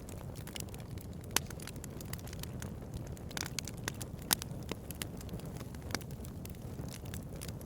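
Bonfire crackling: a steady low rumble of burning wood with sharp pops scattered irregularly throughout. The loudest pops come about a second and a half in and just after four seconds.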